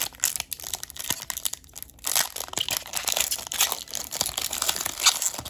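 Crinkly plastic packaging of a Pokémon card product being crumpled and torn open, an irregular run of crackles and tears.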